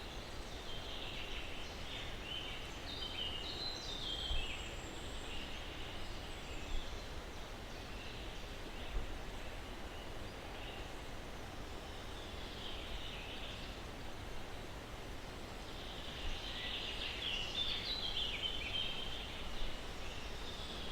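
Birds chirping in short clusters near the start, briefly in the middle and again near the end, over a steady hiss of breeze through pine trees.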